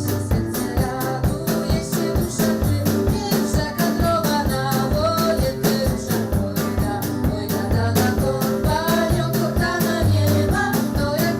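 Band music with a steady beat: drum kit, bass and guitar under a wavering melody line.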